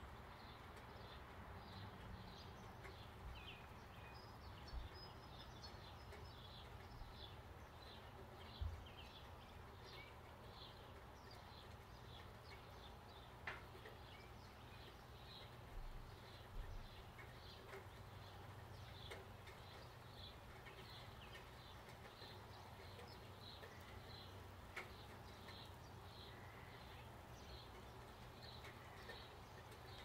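Faint small-bird chirps repeating about one to two a second, over a quiet background hiss and low hum, with a few brief soft knocks.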